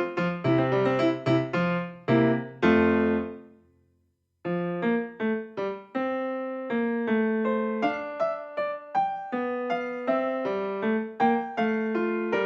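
Background piano music. The piece rings out and falls silent about four seconds in, and the piano starts up again half a second later.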